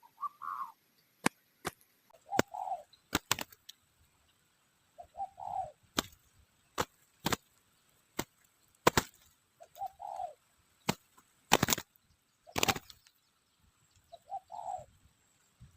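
Spotted dove cooing: five short, low coo phrases a few seconds apart. Between them come repeated sharp clicks and snaps, several louder than the coos.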